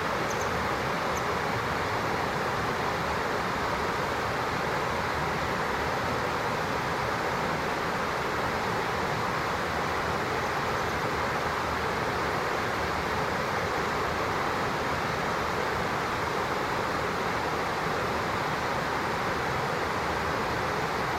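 Steady rushing of a flowing stream, unchanging throughout, with a couple of faint high chirps about a second in.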